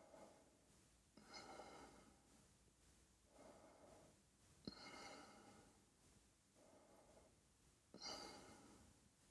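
Faint, slow breathing in and out close to the microphone, in soft swells every second or two, with one small click about halfway through.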